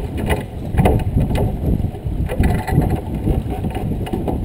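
Wind buffeting the microphone aboard a J24 sailboat under sail, with a few sharp knocks.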